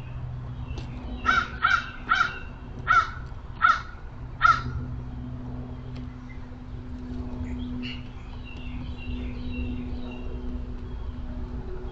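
Crow cawing six times in quick succession. Fainter chirps of smaller birds follow, over a steady low hum.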